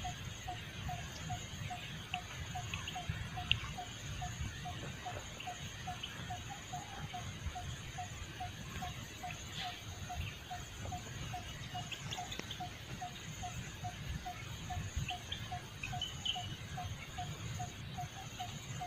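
Forest ambience: an animal repeats a short, even call about twice a second, over a steady high insect drone, with scattered faint ticks and a low rumble.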